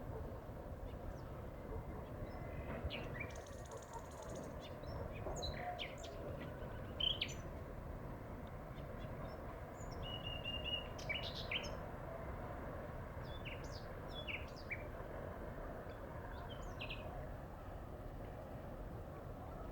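Nightingale singing in short, varied phrases of chirps and whistles, with a brief trill about ten seconds in, over steady low outdoor background noise.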